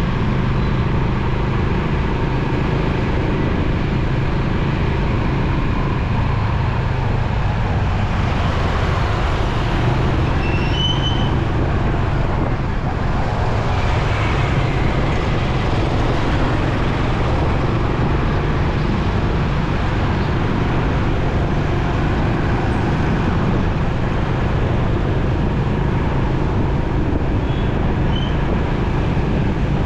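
Motorcycle ridden through city traffic: its engine running steadily under road and traffic noise, with a few short high-pitched chirps about ten seconds in and again near the end.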